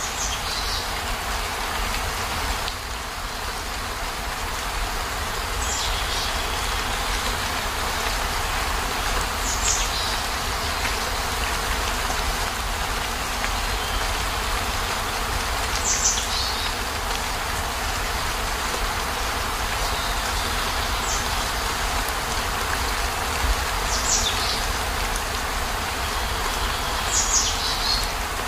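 Steady rainfall with a low rumble underneath. A short, high, falling chirp recurs every few seconds, about seven times in all.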